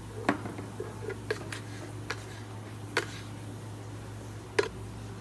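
Cafe work: scattered sharp clinks and knocks of cups, tools and utensils being handled, about six in all, over a steady low hum.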